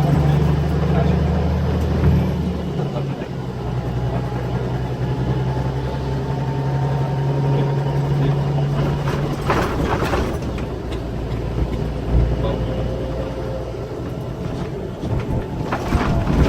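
Scania K340EB6 coach's diesel engine running steadily under way, heard from inside the cabin; its steady drone falls away about nine and a half seconds in, leaving road and cabin rumble with a few sharp knocks.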